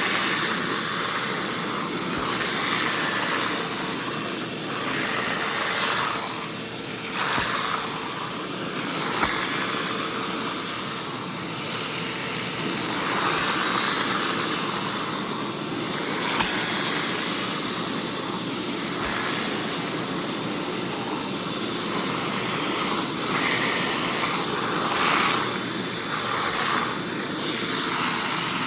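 Hoover SteamVac SpinScrub carpet cleaner running with its vacuum motor sucking water back up out of the carpet. It is a loud, steady rushing whine that swells and dips in level every few seconds.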